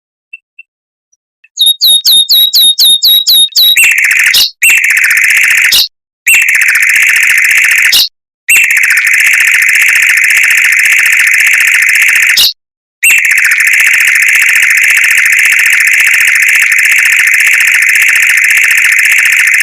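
Mockingbird song, recorded loud and close: a quick run of repeated chirps about eight a second, then long, very fast trills held for several seconds at a time with short breaks between.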